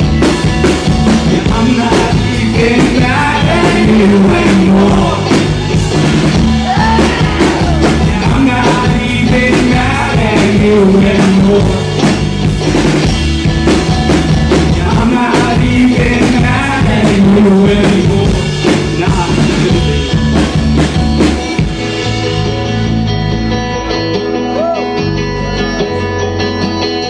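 Live rock band playing an instrumental passage with drum kit and guitar. About 22 seconds in, the drums drop out and the guitar carries on alone.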